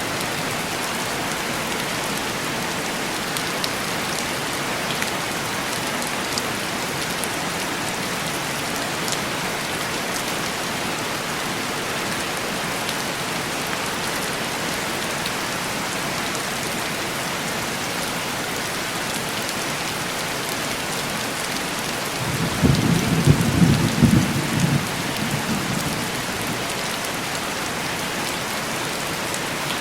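Steady heavy rain falling on window glass, with a low rumble of thunder rolling in about three-quarters of the way through and fading over a few seconds.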